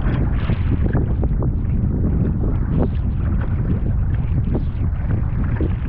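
Strong wind buffeting the camera microphone with a heavy, steady rumble, while water splashes around a kayak in rough water in short, frequent bursts.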